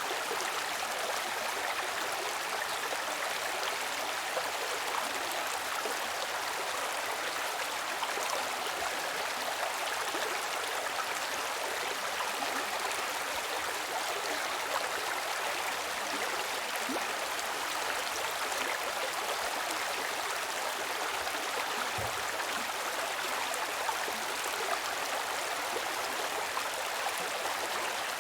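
Running water of a stream, a steady, even rush with no break.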